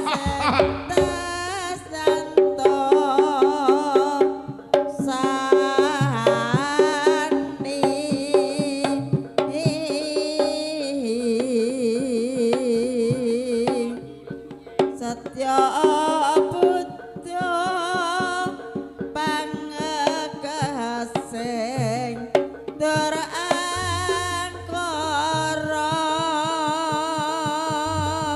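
Live traditional Javanese dance music: rapid hand-drum strokes under a wavering melody line with heavy vibrato, thinning briefly to a sustained wavering tone about halfway through.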